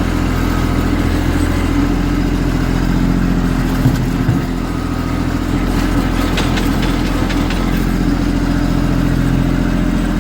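Kubota B2650 compact tractor's diesel engine running steadily. There is a knock about four seconds in and a few sharp clicks and rattles a little past the middle.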